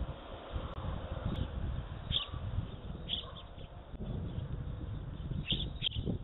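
Small birds giving short high chirps every second or two, a pair close together near the end, over a low fluctuating outdoor rumble.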